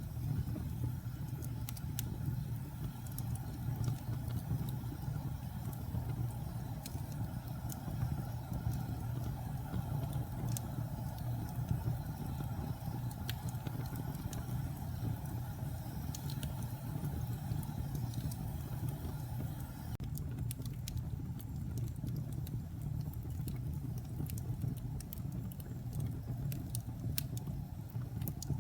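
Wood fire burning in a fireplace: a steady low roar of flames with scattered sharp crackles and pops.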